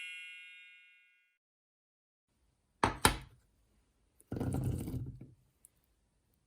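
A bright ringing chime dies away in the first second, then two sharp knocks about three seconds in and a short clatter a little later: kitchen items and ingredients being set down and handled.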